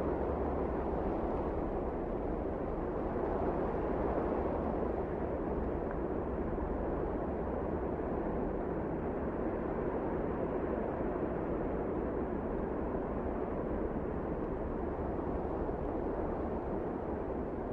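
Wind blowing steadily, a low, even rushing noise.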